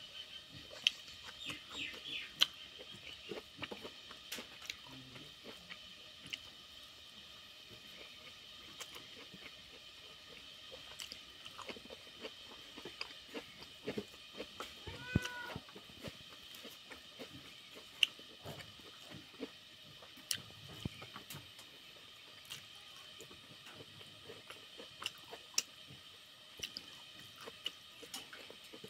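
A person chewing and eating rice and vegetables by hand, with frequent sharp mouth clicks and smacks over a steady high-pitched background drone. A brief call is heard about halfway through.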